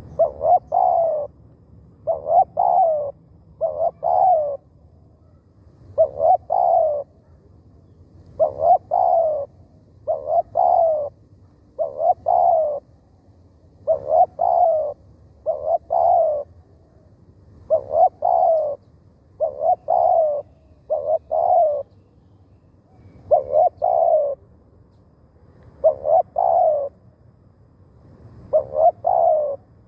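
Spotted dove cooing: short phrases of two or three notes repeated about every two seconds.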